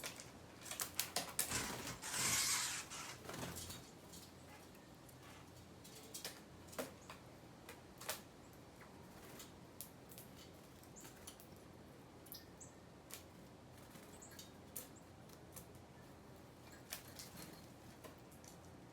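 Birds pecking at seed: irregular light taps and clicks, with a louder rustling burst about two seconds in.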